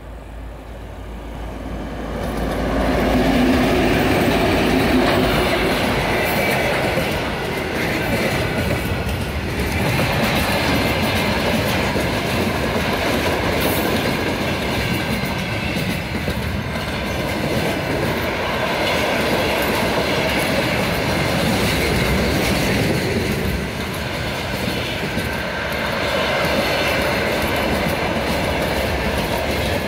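2M62 diesel locomotive's engines growing loud as it approaches and passes in the first few seconds. Then the steady running noise and clickety-clack of a long string of freight wagons rolling past on the rails.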